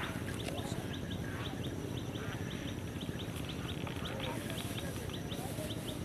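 A bird chirping in a long, even series of short high notes, about three a second, over steady low background noise.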